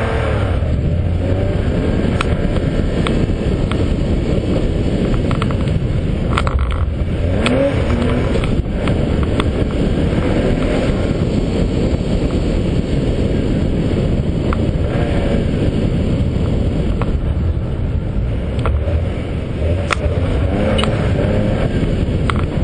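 Autocross car's engine running and revving as the car is driven around the course, heard from a camera mounted on the car, under a heavy, steady low rumble of road and wind noise.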